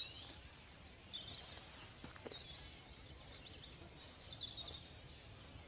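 Faint bird chirps: a few short, high calls that slide downward, scattered through a quiet outdoor background.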